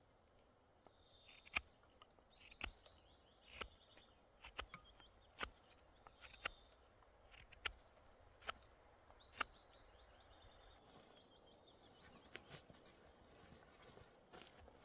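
Sharp, irregular clicks or snaps, roughly one a second, with faint high bird chirps in short repeated calls between them.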